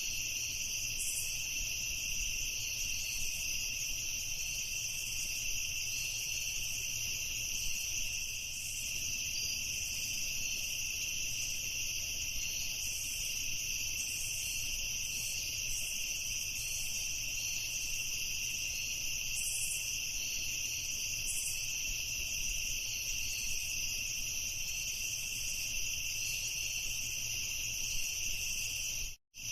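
Crickets chirring in a steady, unbroken night chorus. The sound drops out for a split second near the end.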